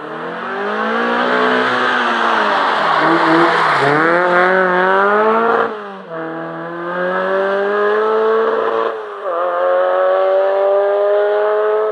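Rally car engine at full throttle. Its pitch falls as the car slows until about three and a half seconds in, then climbs hard, dropping sharply at two upshifts around six and nine seconds in.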